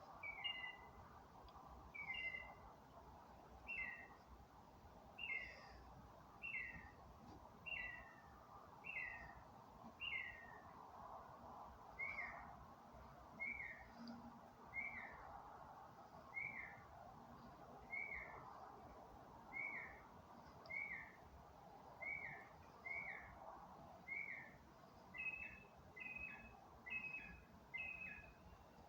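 A bird singing at night, repeating one short, falling whistled note about once every second or so in a steady rhythm, faint against a low background hiss. Near the end the notes come in quicker two-part phrases with a higher start.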